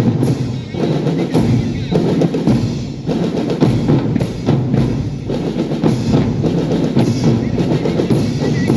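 Marching drum band playing, with snare, tenor and bass drums beating together under the music.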